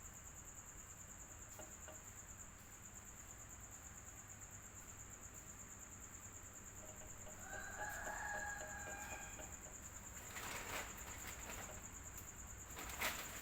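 Electric fan running with a steady whir and a high hiss. A rooster crows once in the background about seven seconds in, a single drawn-out call. A few sharp clicks follow near the end.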